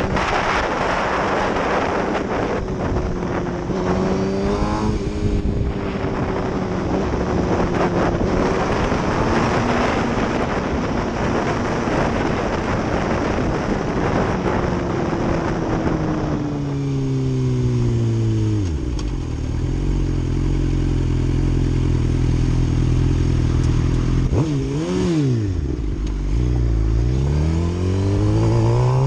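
Motorcycle engine under way with wind rushing over the microphone, then dropping in pitch as the bike slows to a steady idle. About 25 s in it gives a quick sharp rev, a 'rev bomb' to warn a driver cutting across into its lane. Near the end it accelerates hard, pitch rising, as it guns it away.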